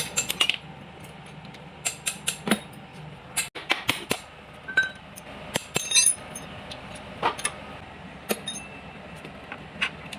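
Metal hand tools and parts clinking and clanking irregularly: a dozen or so sharp metallic taps, some ringing briefly, over a low steady hum.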